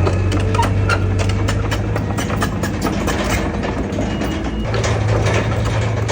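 Heavy diesel engine of an earthmoving machine running with a steady low drone, which eases for a few seconds and then comes back in strength near the end. A run of clicks and rattles goes on over it.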